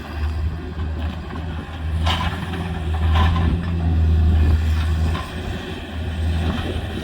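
Heavy engine running steadily at a low pitch, with a couple of short cracking noises about two and three seconds in.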